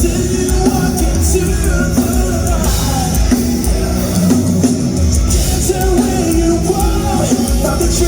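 Rock band playing live at concert volume: a full mix of drums, bass and distorted guitars, with some singing in the mix.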